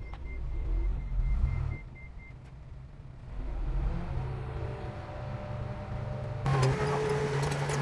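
Heavy diesel construction machinery running, with low engine rumble that swells and eases. About six and a half seconds in, a louder, steadier engine drone comes in suddenly.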